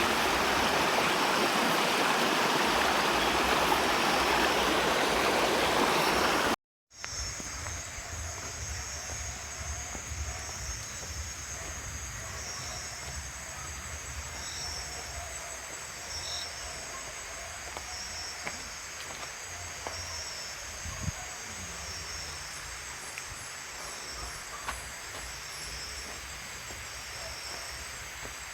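Loud rushing stream water for about six and a half seconds, then an abrupt cut to a quieter, steady chorus of chirring insects over a low rumble.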